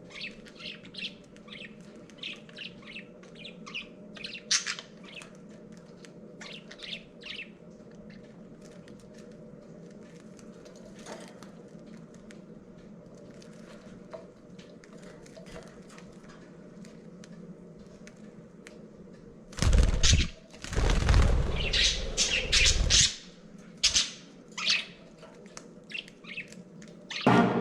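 Two male budgerigars squabbling: short high chirps and squawks, then, about twenty seconds in, a loud few-second flurry of wing flapping and scuffling, followed by a few more sharp bursts.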